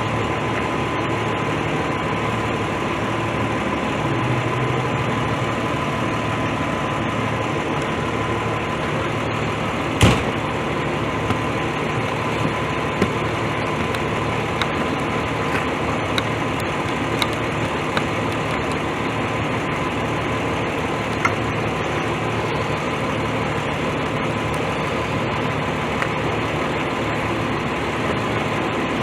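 A vehicle engine idling steadily, with a thin steady whine on top. One sharp knock about ten seconds in.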